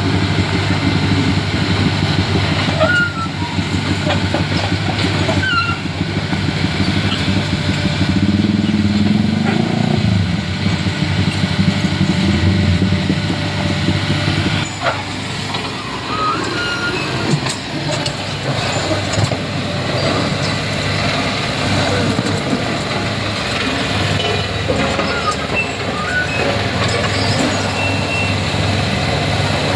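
Heavy diesel engines of road-work machinery and trucks running steadily. One engine revs up and settles back down about a third of the way in.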